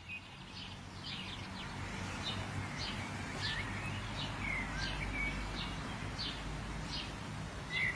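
Small birds chirping in short, sharp calls that fall in pitch, about one or two a second, over a steady low background rumble.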